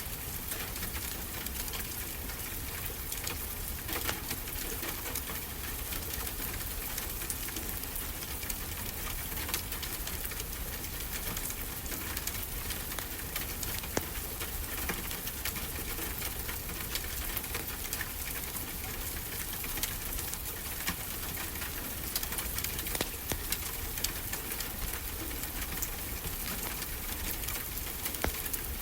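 Wood fire crackling, with frequent sharp pops and snaps, over a steady wash of ocean surf.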